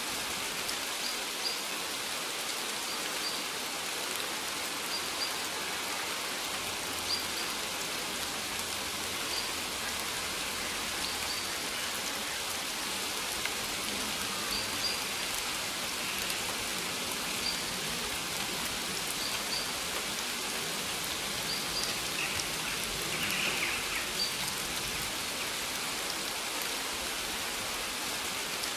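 Steady rain falling on a maize field, an even wash of drops on the leaves.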